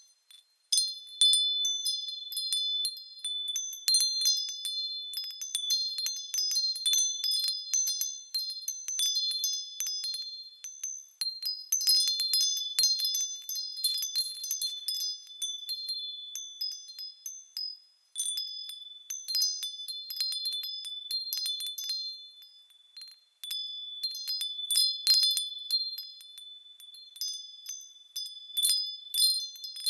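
Small high-pitched bells jingling and tinkling as they move, striking irregularly and ringing over one another, with brief lulls about eighteen and twenty-three seconds in.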